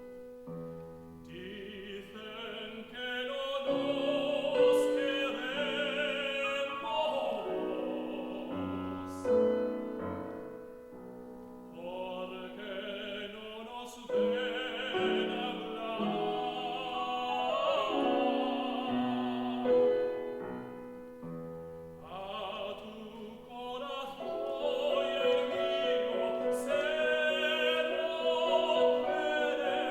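Operatic tenor singing a classical song with piano accompaniment, in long phrases with short pauses between them.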